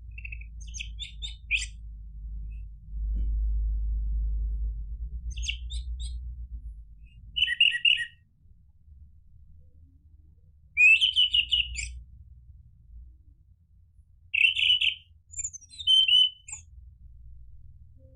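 Orange-headed thrush singing in short, quick phrases of rapid high notes, about six phrases a few seconds apart. A low rumble runs underneath, strongest from about three to seven seconds in.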